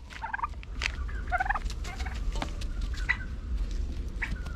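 Domestic turkeys calling: several short, high calls scattered through, over a steady low rumble with a few faint clicks.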